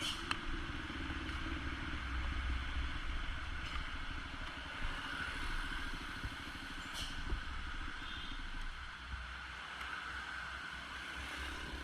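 Motorcycle riding in the rain: a low wind rumble on the microphone, an even hiss of rain and wet tyres, and a steady engine hum that fades after the first few seconds.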